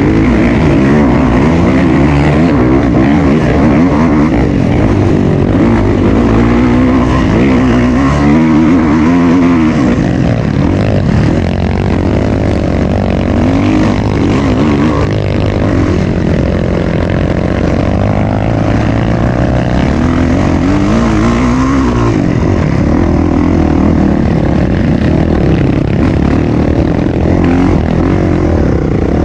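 Off-road trail motorcycle engine running continuously, its pitch rising and falling again and again as it revs up and down.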